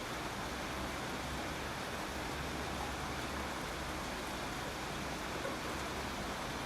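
Steady rainfall, an even hiss of rain with no distinct drops or breaks.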